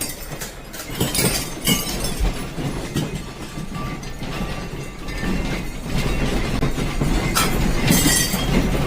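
Loose objects rattling and clattering over a steady low rumble, with a few sharper knocks, as a building shakes in an earthquake.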